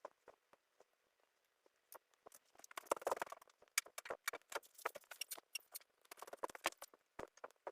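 Stylus tapping and scratching on a drawing tablet: scattered sharp taps, thickening into denser scratchy strokes about three seconds in and again near six and a half seconds.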